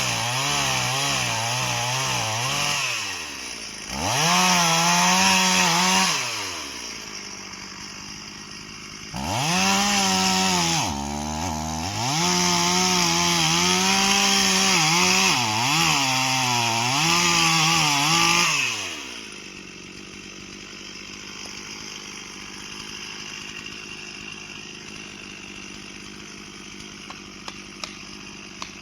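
Two-stroke chainsaw at full throttle cutting into wood, its engine note sagging and recovering as the chain bites, dropping back between cuts. It runs in several bursts and stops about two-thirds of the way through.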